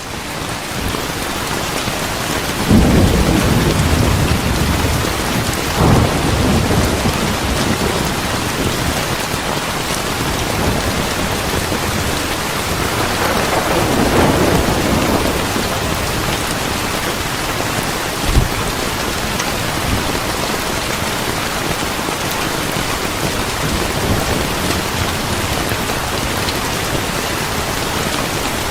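Steady heavy rain with rolling thunder: low rumbles swell in a few seconds in, again around six seconds, and in the middle, and a short sharp thunder crack comes about two-thirds of the way through.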